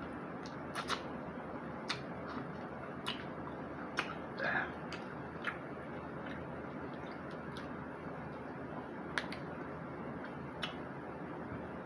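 Close-up mukbang eating sounds: scattered sharp clicks and smacks of chewing and handling shellfish, irregularly spaced, over a steady background hiss.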